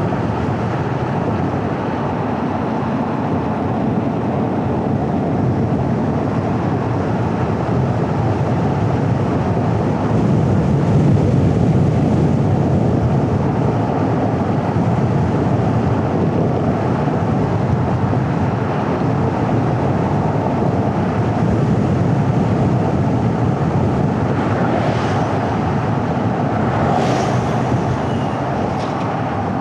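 Steady rumble of road and traffic noise from a car driving, with a few brief higher hissing streaks near the end.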